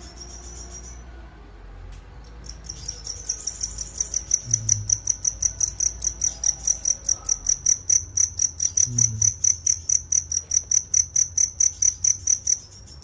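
Cricket chirping in a fast, even run of high-pitched chirps, about three or four a second. The chirps start a couple of seconds in, after a fainter continuous trill, and pause briefly near the end.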